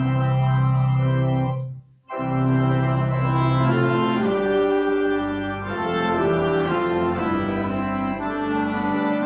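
Church organ playing held chords over a sustained bass, breaking off briefly about two seconds in before the next phrase.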